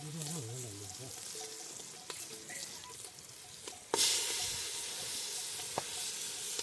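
Food sizzling in hot oil in a pan, with a sudden louder burst of sizzling about four seconds in, as when ingredients are dropped into the hot oil.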